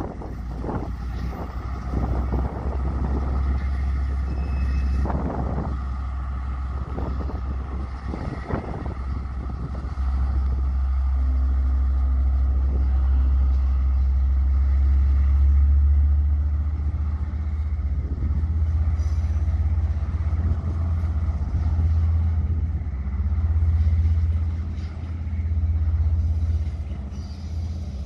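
Freight train of tank-container wagons hauled by a KiwiRail DL class diesel-electric locomotive rolling past, its wheels knocking over the rail joints several times in the first few seconds. From about a third of the way in, a loud, uneven low rumble takes over while the train draws away.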